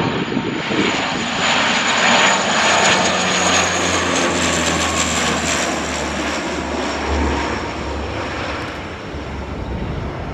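Fixed-wing aircraft passing low overhead on its landing approach: a steady engine roar with a high whine, loudest about two seconds in, then fading slowly as the whine drifts a little lower.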